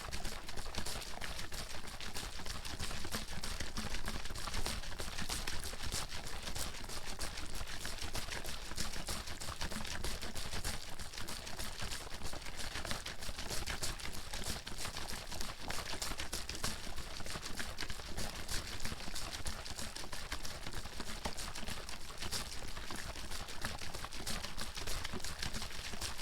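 Water bottle being shaken steadily, the water sloshing and splashing inside in a rapid, unbroken clatter.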